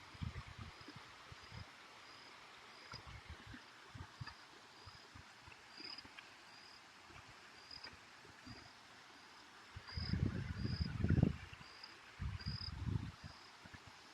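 A small creature chirping: a short high note repeated evenly, a little more than once a second, over a faint hiss. Wind rumbles on the microphone a few times, most strongly about ten seconds in.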